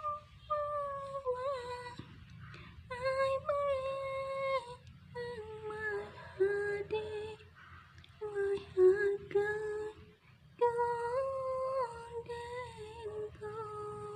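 A high-pitched voice holding long, drawn-out notes in about five phrases separated by brief pauses.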